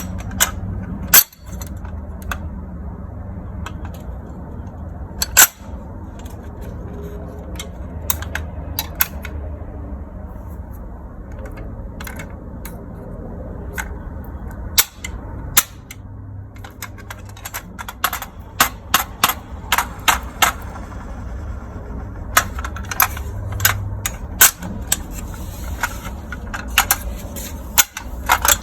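Hard plastic toy cars clicking and clattering as they are handled, in scattered sharp knocks that bunch into quick runs in the second half, over a steady low hum.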